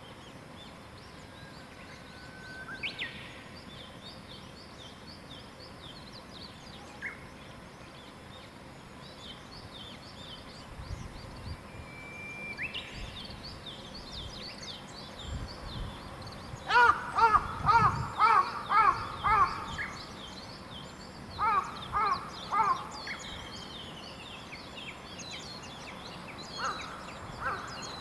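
Morning bird chorus: small songbirds chatter high-pitched throughout, with a few single whistled notes. Midway, a crow caws loudly in a quick run of about seven calls, then three more a few seconds later.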